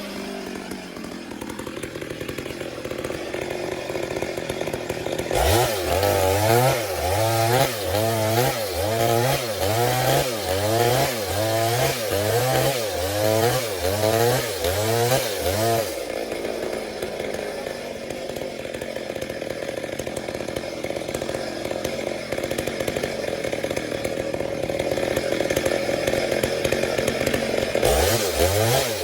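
Stihl MS 382 two-stroke chainsaw running in a lengthwise milling cut through a log. The engine note rises and falls about once a second for long stretches as it loads and frees up in the wood, with steadier running in between.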